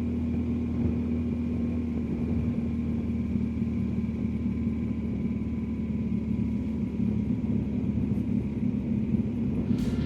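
BMW R1250GSA's boxer-twin engine running at a steady cruise, with steady road and wind noise.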